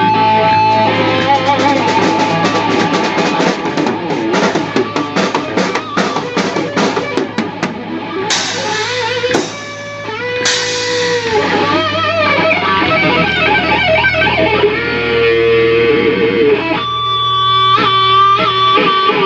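Rock band jamming on electric guitar, drum kit and bass guitar: the guitar plays a lead line with bent, wavering notes over steady bass and drums. The band drops out briefly about nine seconds in, then comes back and settles into held notes near the end.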